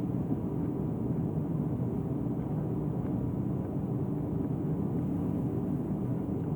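Combination washer-dryer running in its drying cycle: a steady, low machine drone with no breaks.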